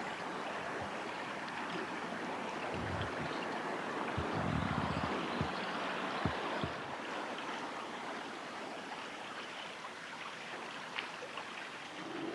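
Steady rush of flowing river water, with a few short low thumps around the middle.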